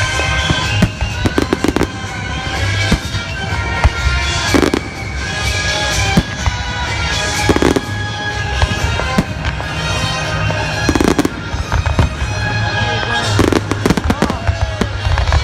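Fireworks and firecrackers going off in irregular bangs and crackling clusters, over music with a steady bass line.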